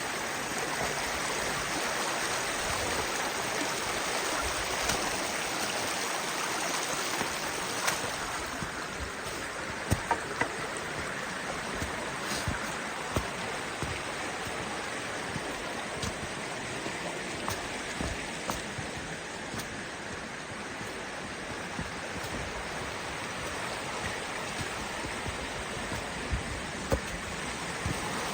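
Kanarra Creek running, a steady rush of flowing water, with a few brief sharp knocks scattered through it, the loudest a pair about ten seconds in.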